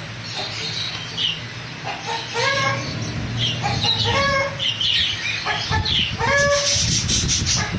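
Several birds calling: a short pitched call repeated every second or so, with thinner high chirps in between. Near the end comes a rustling, flapping noise.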